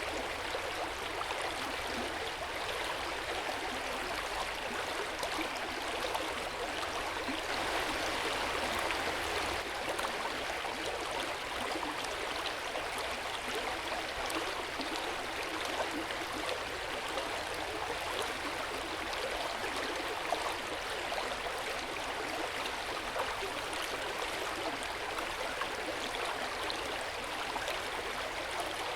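Hot spring water flowing and splashing steadily into an open-air bath, an even, continuous rush that swells a little about a third of the way in.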